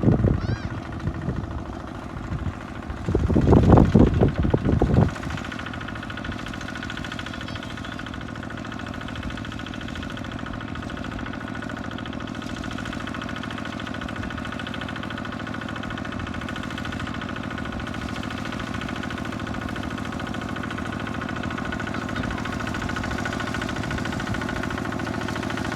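Kubota tractor engine running steadily, growing slowly louder toward the end, with a loud irregular burst of sound about three to five seconds in.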